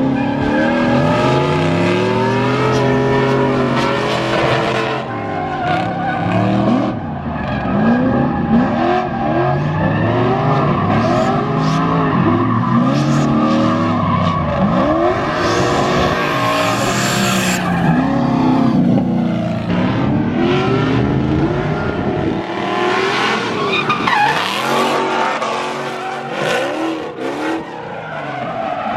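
Drift cars' engines revving up and down again and again, with tyres squealing and skidding as the cars slide; a louder tyre screech about halfway through.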